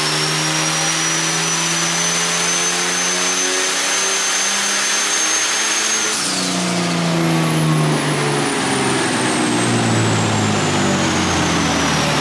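Compound-turbocharged Ford AU Falcon engine making a full-load pull on a chassis dyno: the revs climb steadily for about six seconds with a high whine rising alongside. Then the throttle closes, the whine cuts off suddenly, and the revs and whine fall away over a steady loud rush of noise.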